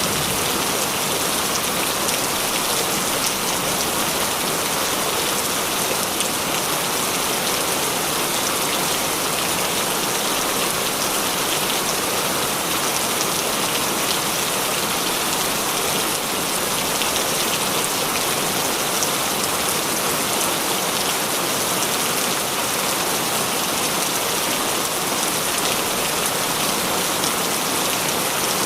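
Heavy rain falling steadily, a dense hiss with fine drop patter on surfaces.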